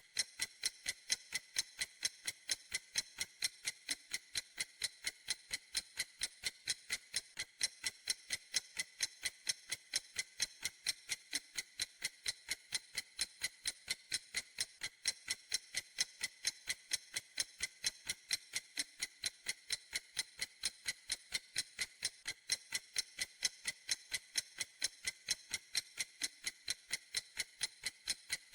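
A clock ticking steadily: crisp, evenly spaced ticks, a few a second, with no change in pace.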